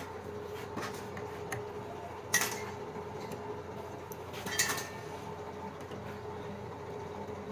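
Two sharp metallic clinks of tools or metal parts being handled, about two seconds apart, over a steady low hum.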